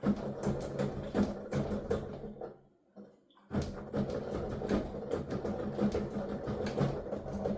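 Digital piano being played with its sound going to headphones, so only the keys' action is heard: rapid, dense clacking and thumping of keys being struck and released. The playing stops for about a second midway, then resumes.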